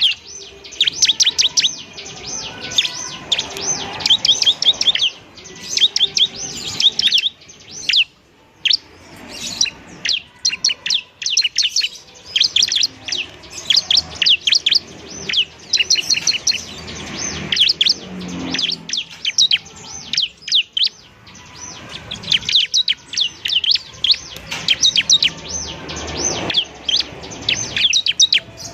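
Bar-winged prinia (ciblek) singing lively: fast runs of sharp, high chirps in dense bursts, broken by short pauses.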